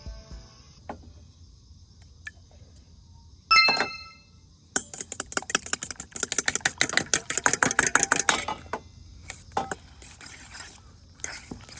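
A single ringing clink of a utensil striking a dish, then about four seconds of fast clicking of a utensil against a bowl, with a few scattered clicks near the end.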